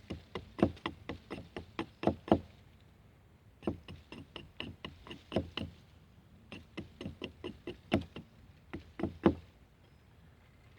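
Sharp chopping blows of a blade into a birch stool leg as it is cut to a point, in three quick runs of strikes with short pauses between them.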